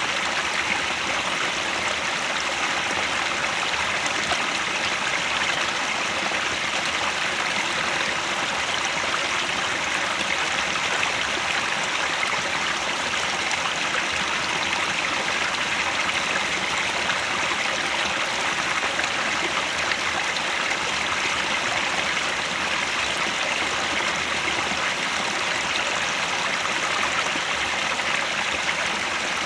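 Headwater stream flowing: a steady, even rush of running water that does not change.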